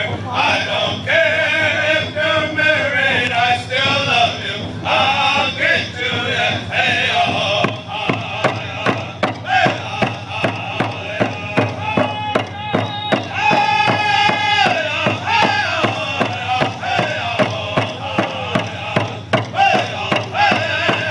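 Men's voices singing a powwow round dance song together over a steady drumbeat. The drumbeat comes more to the front from about eight seconds in.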